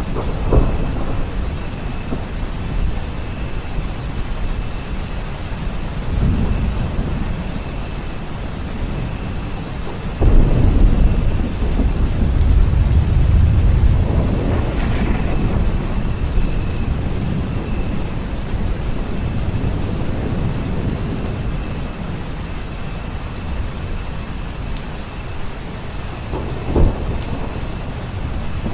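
Steady rain with rolling thunder. A long low rumble of thunder swells about ten seconds in and lasts several seconds, and a shorter, sharper clap comes near the end.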